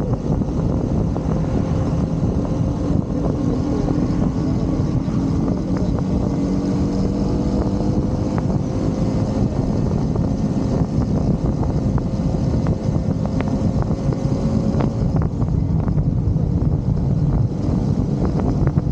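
Motorcycle engine running steadily at road speed under a dense rush of wind noise, its note drifting only slowly as the bike cruises.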